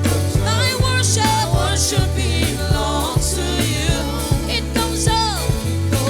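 Gospel worship band playing: a singer's wavering, ornamented vocal runs over bass guitar and drums.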